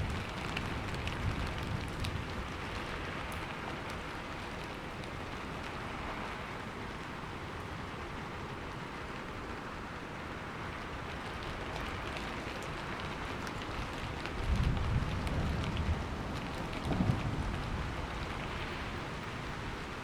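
Steady heavy rain falling, with scattered drips and splashes. Near the end, low rolling thunder rumbles for about three seconds.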